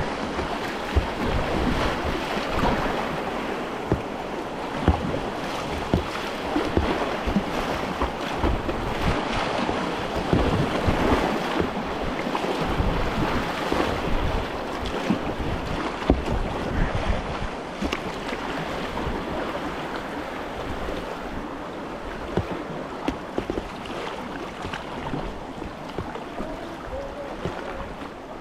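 River water flowing and splashing around a kayak, a steady rushing noise broken by many short, irregular low thumps, with wind noise on the microphone.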